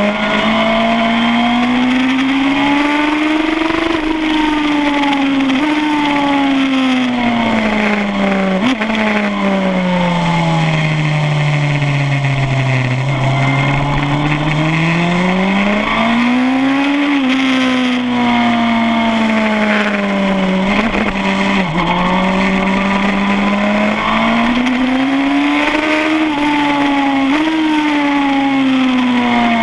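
2007 Suzuki GSX-R1000 inline-four engine at full race pace on track, revving up and down: the pitch climbs, drops sharply at several upshifts, and sinks slowly in a long dip near the middle as the bike slows for a corner, then climbs again.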